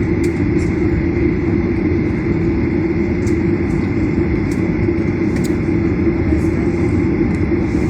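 Airplane engines during takeoff: a loud, steady rumble with a faint high whine running over it.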